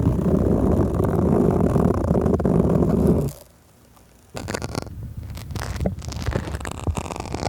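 ASMR trigger sounds made right against a microphone: a loud, dense low rubbing for about three seconds, a brief pause, then crackly scratching and tapping with many small clicks.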